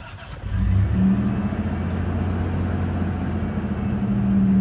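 Toyota 3VZ-E V6 of a second-generation 4Runner cold-starting after sitting in near-freezing weather: the engine catches about half a second in and settles into a steady idle.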